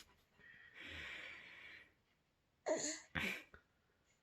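A baby's breathy exhale, then two short vocal sounds in quick succession.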